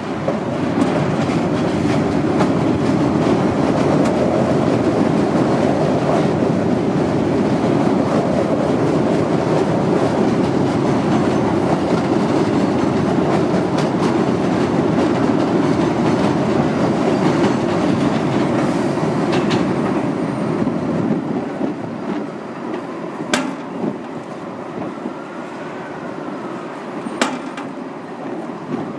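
An R42 subway train runs along the track with a steady rumble and a faint held tone, its wheels clacking over the rail joints. The noise eases off over the last third as the train draws away, and two sharp clicks come near the end.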